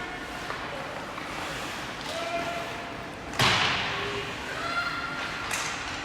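A single loud bang against the ice rink boards about three seconds in, echoing through the arena, with a lighter knock near the end.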